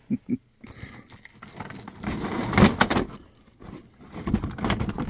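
Rustling, scraping and light knocks of packaging being handled as a boxed model airplane is unpacked.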